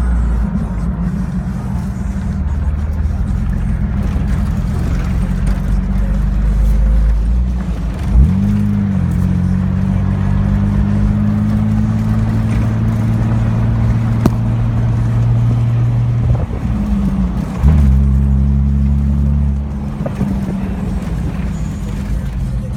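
2002 Jeep Wrangler TJ's 4.0-litre inline-six running through a Magnaflow glasspack muffler, a deep exhaust note. The engine pitch rises and falls sharply twice, about 8 and 17 seconds in, then holds steady.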